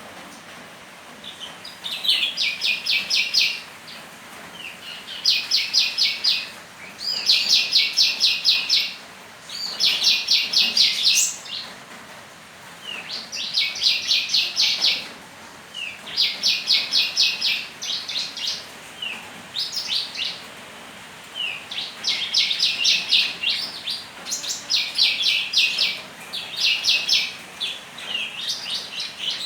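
A songbird singing persistently, repeating fast, high trilled phrases about a second long with short pauses between them.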